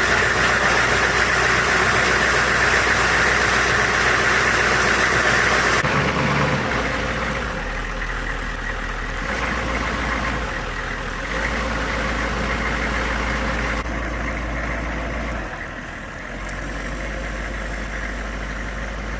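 A steady engine running, with a loud, even hiss over it that drops away about six seconds in; the sound then changes level abruptly several times.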